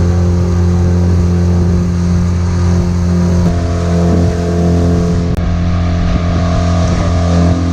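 Boat's outboard motor running steadily under way, its tone shifting slightly about halfway through.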